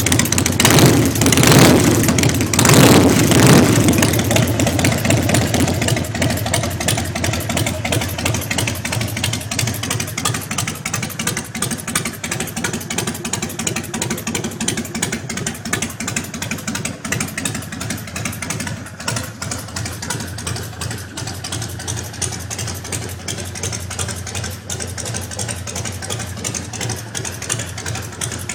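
Harley-Davidson Deuce bobber's V-twin engine revved twice in the first few seconds, then idling steadily.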